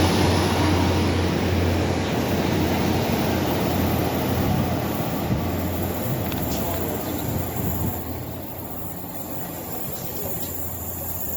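A train running past, its rumble slowly fading as it moves away.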